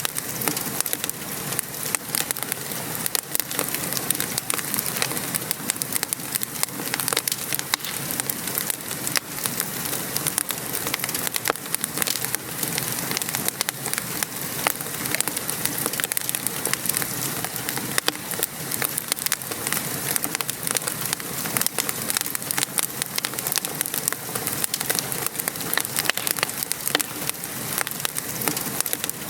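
Wood fire crackling, with many small sharp pops throughout, over the steady patter of rain.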